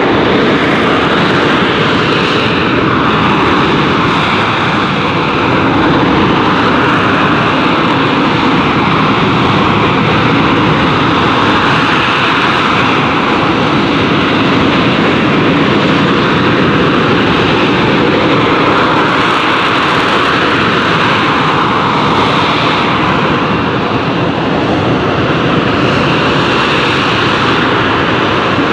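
AV-8B Harrier II's Rolls-Royce Pegasus turbofan running loud and unbroken, a dense jet noise whose pitch swells and drifts slowly up and down.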